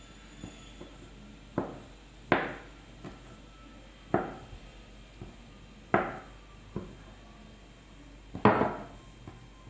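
Sharp knocks of a kitchen tool on a hard surface: five strikes spaced irregularly a second or two apart, each with a short ring, the last the loudest.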